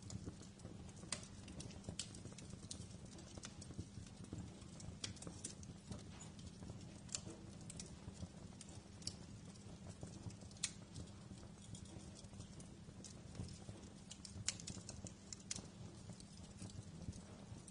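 Wood fire crackling: irregular sharp pops and snaps over a low steady rumble, with a couple of louder snaps in the second half.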